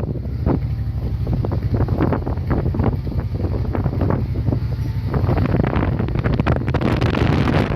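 Wind buffeting the microphone: a steady low rumble with irregular crackling gusts.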